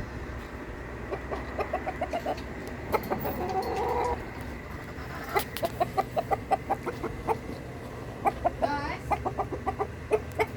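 Chickens clucking in quick runs of short notes, several a second, with a longer call in between.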